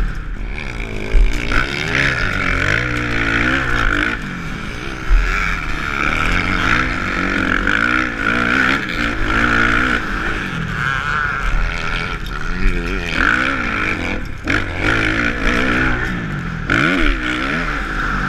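Kawasaki motocross bike's engine revving up and down over and over as it is ridden hard, with a couple of low thumps about a second in and about five seconds in.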